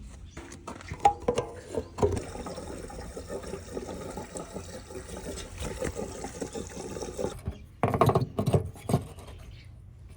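Liquid pouring steadily for about five seconds and stopping abruptly, followed by a few loud knocks.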